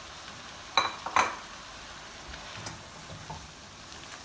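Chicken pieces sizzling in oil and masala in a pot, with a steady hiss. A spatula stirs them, with two sharp knocks against the pot about a second in and lighter scrapes after.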